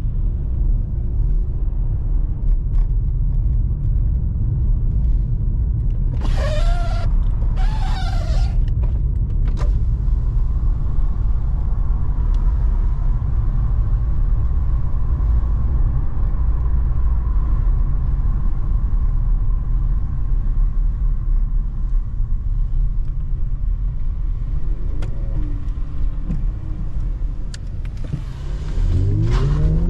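2020 Mercedes-AMG C43's 3.0-litre twin-turbo V6 and road noise making a steady low rumble at a cruise, with two brief hissing bursts about six and eight seconds in. Near the end the engine revs up, rising in pitch as the car accelerates.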